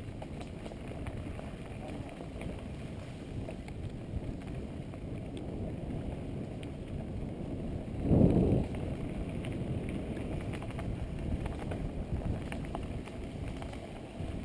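Bicycle riding on a forest track, heard from a camera mounted on the bike: a steady low rumble of tyres and wind noise, with small rattles. About eight seconds in there is a brief, louder rush.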